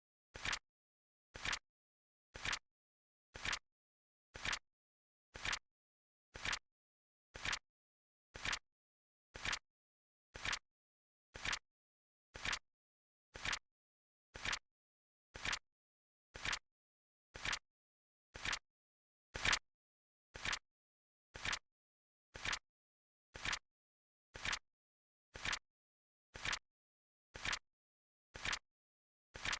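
Flip clock timer sound effect: a short, sharp flip click once a second, evenly spaced with silence between, one click a little louder about two-thirds of the way through.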